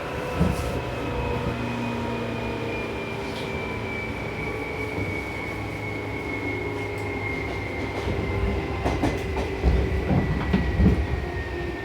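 Seibu New 2000 series electric train heard from inside the car as it slows, its traction motor whine falling slowly in pitch. From about eight seconds in, the wheels knock over a run of rail joints and points.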